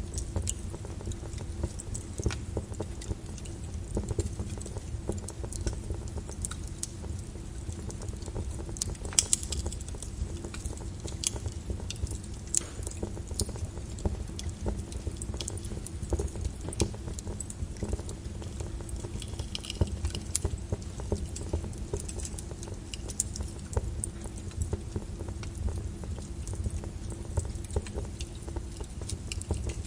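Lava flow: a steady low rumble with many irregular sharp crackles and pops.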